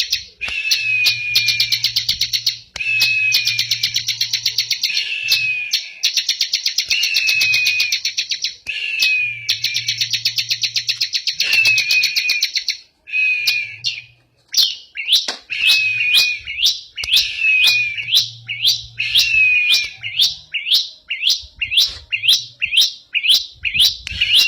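A ciblek, a prinia songbird, singing 'ngebren': long, rapid buzzy trills, each with a falling whistled note, repeated phrase after phrase. Past the middle it switches to a quick series of short, sharp downward-sweeping chips, about two or three a second.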